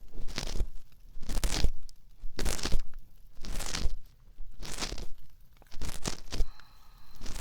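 Ear-cleaning strokes on a binaural dummy-head microphone's ear: slow, rhythmic scratching rubs, about one a second.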